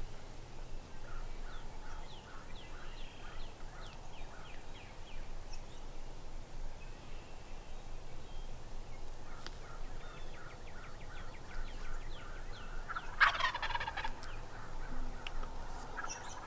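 Wild turkeys calling: two runs of evenly spaced yelps, about three a second, and a loud rattling gobble from a tom about thirteen seconds in.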